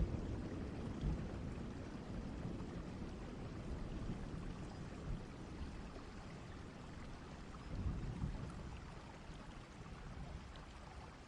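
Distant thunderstorm ambience: steady rain with low rolling thunder, one rumble swelling about eight seconds in, the whole gradually growing quieter.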